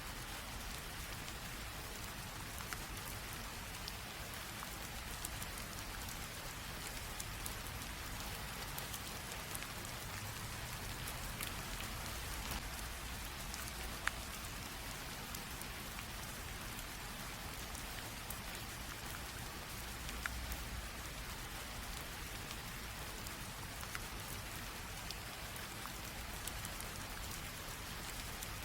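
Light rain drizzling steadily on a surface, a soft even hiss with scattered individual drops ticking, one a little sharper about halfway through.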